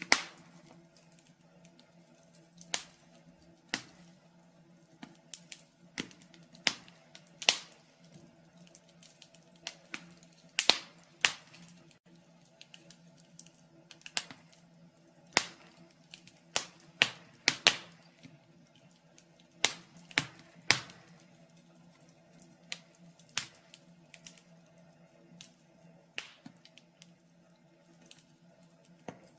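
Wood fire in a fireplace crackling: irregular sharp pops and snaps at uneven intervals, a few louder than the rest, over a faint steady low hum.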